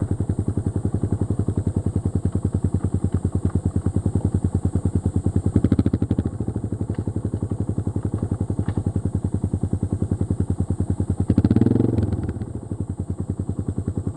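Yamaha XT225 Serow's air-cooled single-cylinder four-stroke engine running at low revs with an even pulsing exhaust beat. It picks up briefly twice, about six and eleven and a half seconds in, then settles to a slower, quieter beat near the end.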